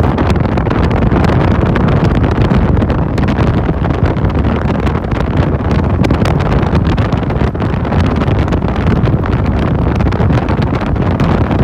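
Loud wind buffeting the microphone on a moving motorcycle taxi, over the motorbike's steady running and road rumble.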